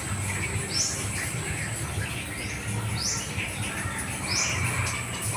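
A bird chirping: short, high, falling chirps repeated every second or two, over a steady thin high whine and a low hum.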